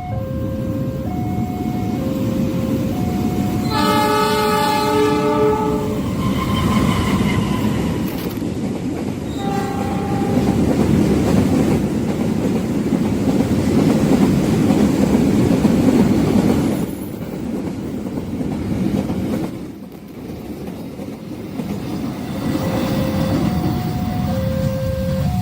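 Level-crossing warning alarm alternating between two tones. A train horn sounds for about two seconds some 4 seconds in, with a short second blast near 10 seconds, as the train passes with a heavy rumble and wheel clatter. The rumble dies away after about 17 seconds, and the two-tone crossing alarm is heard again near the end.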